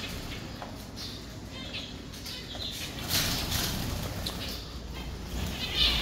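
Birds' wings flapping, loudest in a short burst about three seconds in, with scattered faint chirps from small birds.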